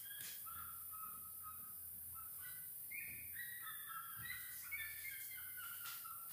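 Faint birds chirping: a string of short whistled notes at varying pitches, one rising about three seconds in, with a few soft taps.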